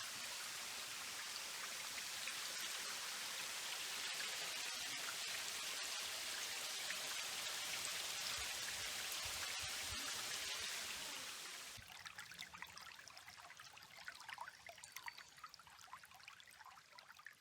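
Steady rush of water spilling over the top of a waterfall, an even hiss. About twelve seconds in it cuts off abruptly to a much quieter stretch with only faint scattered sounds.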